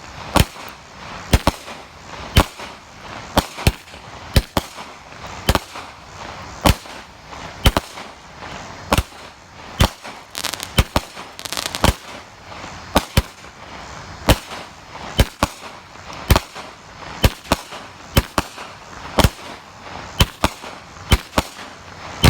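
A 36-shot firework cake going off: a sharp bang about once a second, some shots in quick pairs, with faint crackling between the reports.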